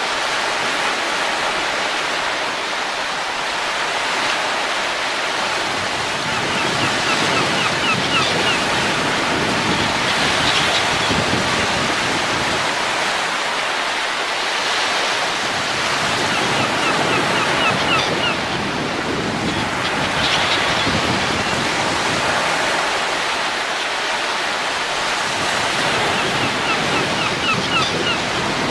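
Wind blowing steadily as a full rushing noise, swelling and easing in slow gusts every few seconds, with faint short high chirps now and then.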